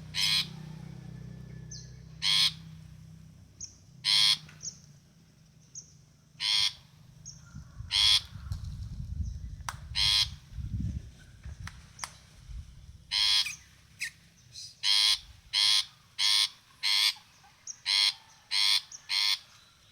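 Caged songbird giving short, loud, harsh calls, one every second or two at first, then coming faster, about one every 0.7 s, in the second half.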